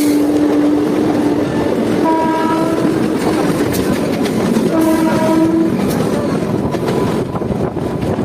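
Indian Railways train horn sounding three blasts, the first held over a second long and the last short. Underneath is the steady rumble and wheel clatter of trains running at speed.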